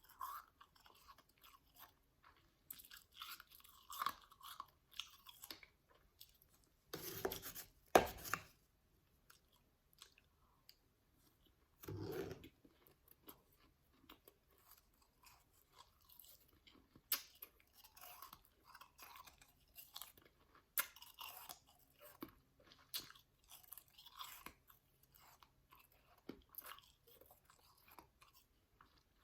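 A person chewing powdery ice close to the microphone: soft, irregular crunches and clicks, with louder crunching bites about seven to eight seconds in and again about twelve seconds in.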